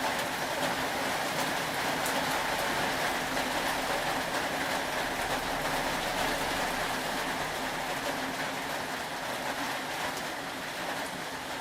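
Steady rain falling: an even hiss with faint fine ticks of drops.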